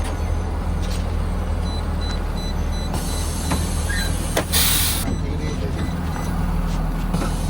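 2020 Blue Bird Vision school bus running steadily, its engine drone heard from inside the bus, with a short hiss of air about four and a half seconds in.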